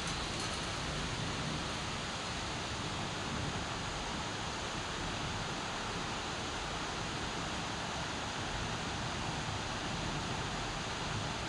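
Steady heavy monsoon rain falling, an even, unbroken hiss.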